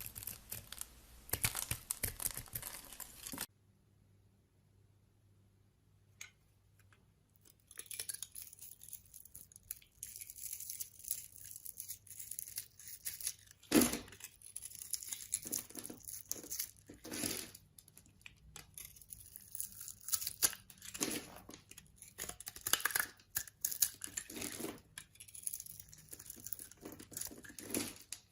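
A knife cutting and scraping into dry bars of soap, giving crisp crackling and crumbling strokes. The cutting stops abruptly about three and a half seconds in, pauses briefly, then resumes, with a sharp snap about fourteen seconds in.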